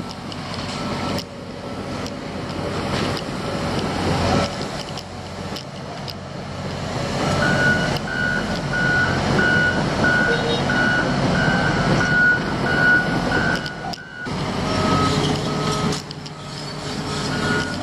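Heavy construction machine's engine running and working hard, getting louder over the first half. From about seven seconds in, its reversing alarm beeps steadily, roughly twice a second, for about six seconds while it backs up.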